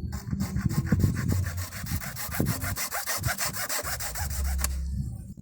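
A hand tool cutting into a plastic water pipe with fast, even rasping strokes, which stop abruptly near the end.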